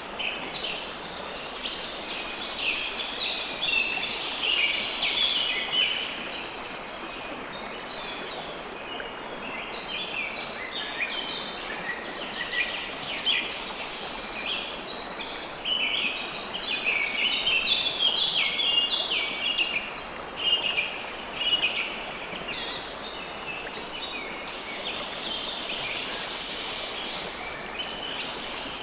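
River water flowing steadily, with many birds chirping over it, thickest in the first few seconds and again from about ten to twenty seconds in.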